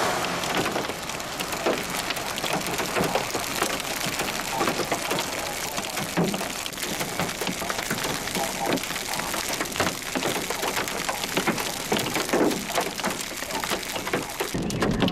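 Hail and rain pelting a car: a steady hiss of rain with many sharp hits of hailstones on the body, a few knocks louder than the rest.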